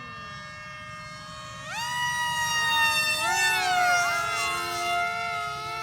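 High whine of electric RC airplane motors and propellers, jumping up in pitch about 1.7 s in as the throttle opens. Around the middle the pitch sweeps down and back up as the planes fly past, with more than one motor tone heard at once.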